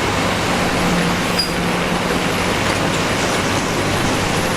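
Heavy diesel construction machinery engine running steadily, with a constant low hum.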